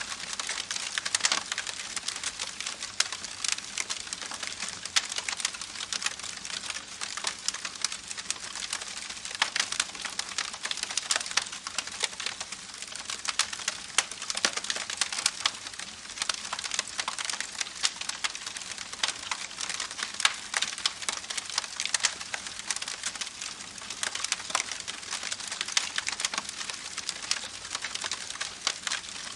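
Campfire crackling: wood burning with a constant stream of irregular sharp pops and snaps over a steady hiss.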